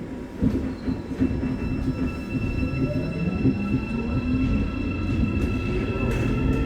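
Busan Metro Line 3 train's Hyundai Rotem IGBT-inverter drive and traction motors pulling away from a station. Steady inverter tones sit over wheel and track rumble, with a motor whine slowly rising in pitch as the train gathers speed. A sharp knock comes about half a second in.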